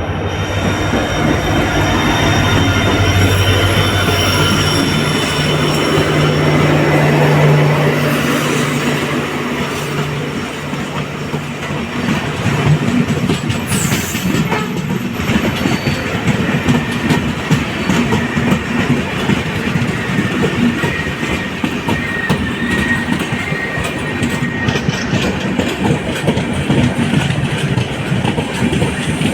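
LHB passenger coaches of the Mandovi Express running at speed, wheels clattering rapidly over the rails with a thin high squeal. A steady low hum carries through the first ten seconds or so, after which the fast, dense clatter dominates.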